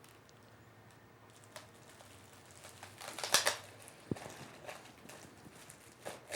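Plastic wrap crinkling and small clicks and snaps as it is stretched over a plastic tub and fastened with a rubber band. The loudest crackling comes a little past halfway, with a sharp click soon after.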